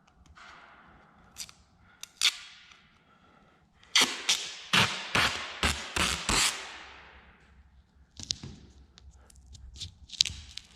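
Masking tape pulled off the roll and torn: a quick run of six or seven sharp rips about four seconds in, with scattered smaller clicks and snaps before and after.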